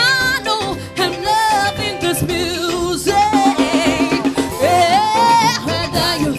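Upbeat band music with drums and a sung vocal line over a steady beat.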